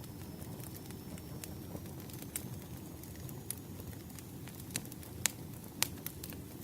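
Wood campfire burning: a steady low rumble with irregular sharp crackles and pops, several louder pops in the second half.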